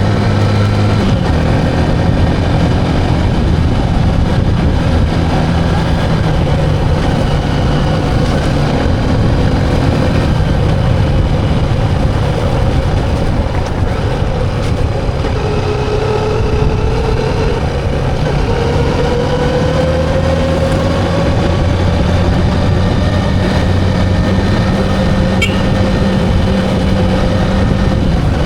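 Vehicle engine running steadily, with a tone that slowly climbs through the middle.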